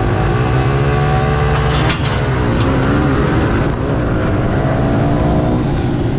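Pit bike engines revving, several at once, their pitch rising and falling, over a heavy low rumble. A brief knock comes about two seconds in.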